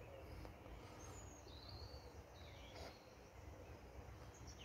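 Near silence: a few faint bird chirps, about a second in, around the middle and near the end, over a low steady background rumble.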